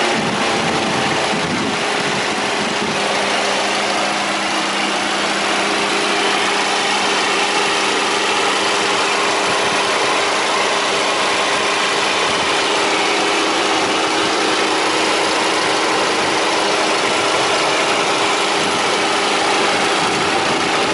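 Car engine idling steadily, a constant hum over an even hiss.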